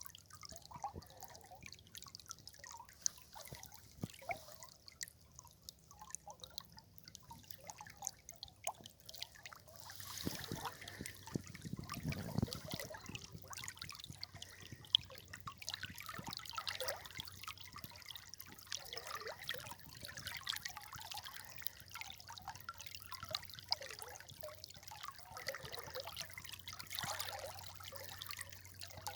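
River water trickling and dripping: scattered drips at first, thickening into a fuller, steadier trickle about ten seconds in.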